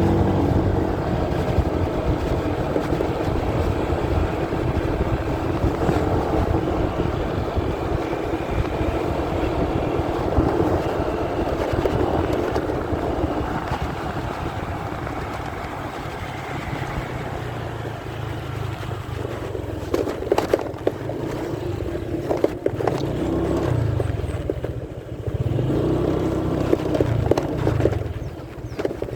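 Motorcycle engine running while riding, heard muffled through a phone carried in a pocket, with knocks from the phone moving against it. In the last third the engine note rises and falls several times as the throttle opens and closes.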